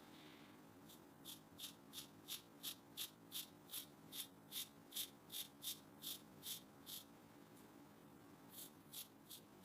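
Faint, rhythmic scratchy strokes, about three a second for some six seconds, then three more near the end, over a low hum.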